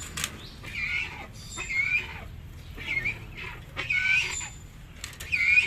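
Yellow-crested cockatoo giving a series of short, harsh squawks, about one a second, five in all.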